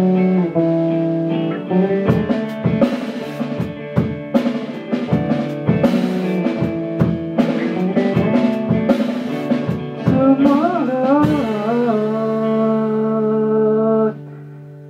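A band plays the end of a song on guitar and drums, with a sung line of improvised words near the end. It closes on a held chord that drops away suddenly about a second before the end.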